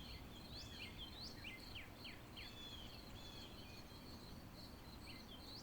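Faint birds chirping, a run of short curved calls and a few quick upward-sweeping notes, over a steady high insect trill and a low background hiss.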